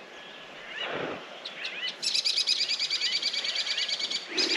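Wild birds calling: a few short chirps, then from about two seconds in a fast, high, chattering run of repeated notes lasting about two seconds.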